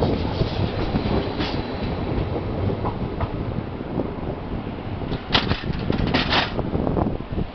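Stadler FLIRT ETR 170 electric multiple unit rolling past at low shunting speed and moving away over the tracks, with steady wheel-on-rail rumble. A cluster of sharp metallic clacks from the wheels comes about five to six and a half seconds in.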